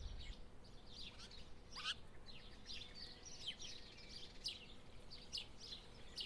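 Faint chirping of small birds: many short, quick calls overlapping, with one louder call sweeping downward about two seconds in, over a low background hiss.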